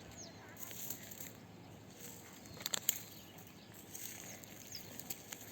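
Faint, scattered chirps of small birds over outdoor background noise, with a few sharp clicks a little before the middle.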